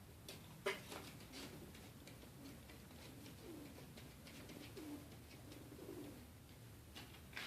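Birds in the space above an apartment ceiling, heard faint and muffled through it: a few low calls that bend in pitch, with sharp knocks and scratches as they move about, the loudest knock about a second in.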